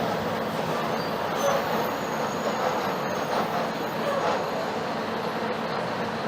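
Mercedes-Benz OF-1721 BlueTec 5 bus's front-mounted diesel engine running steadily, mixed with road noise.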